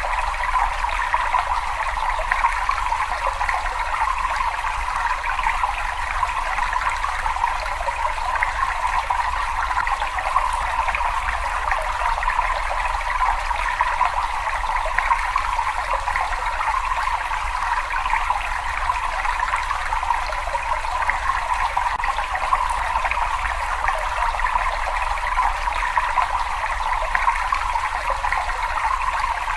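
Water running and trickling steadily in a cave, an even splashing hiss with a low rumble beneath it.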